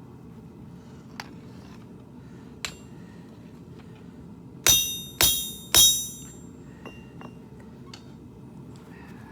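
Blacksmith's hammer striking steel on an anvil: three loud ringing blows in quick succession about halfway through, with a few light taps before and after.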